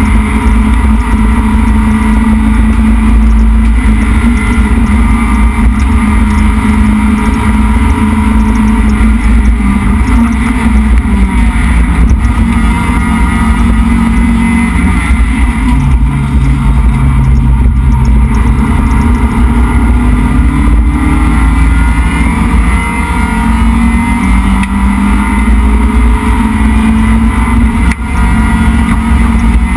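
Neon race car's SOHC 2.0 L four-cylinder engine running hard at racing speed, heard loud inside the stripped cabin. Its pitch drops a little past a third of the way in and sits lower for a few seconds, then climbs steadily through the second half as the revs rise.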